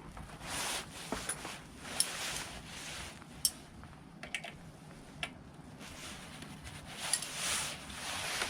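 Workshop handling noises: scattered light clicks and taps, with several short swells of rustling or scraping.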